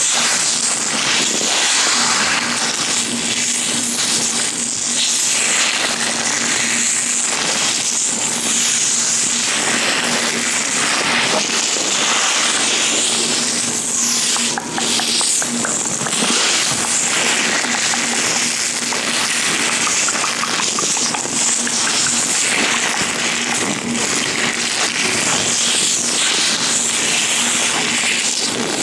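Latex-gloved hands rubbing and gripping right at a microphone, a continuous dense run of small crackles and rubbing noise.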